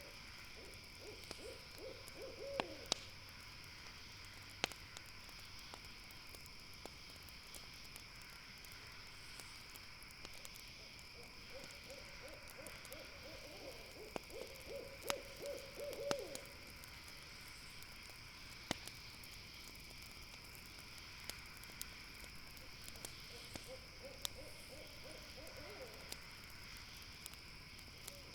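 An owl hooting in three spells of wavering calls, about ten seconds apart, over a steady chorus of night insects. A crackling campfire gives occasional sharp pops.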